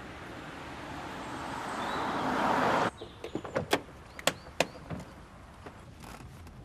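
A rising rush of vehicle noise that cuts off abruptly about three seconds in, followed by a quick run of sharp knocks and clatters, typical of a collision with a car door.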